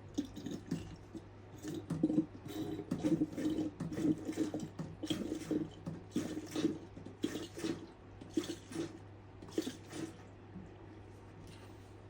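Coolant being poured into the radiator of a 1984 Honda CR250, glugging in uneven gulps that stop about ten seconds in.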